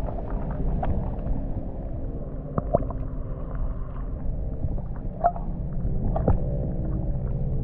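Muffled underwater sound of a river, picked up by a camera held below the surface: a steady low rumble and gurgle with a few sharp clicks.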